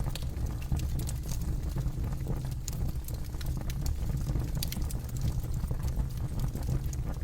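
Campfire burning, with irregular crackles and pops from the burning wood over a steady low rumble.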